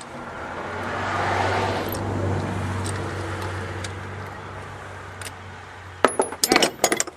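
A quick run of sharp metallic clinks about six seconds in, as loose metal parts knock together. Before that, a vehicle's noise swells and fades over several seconds over a steady low hum.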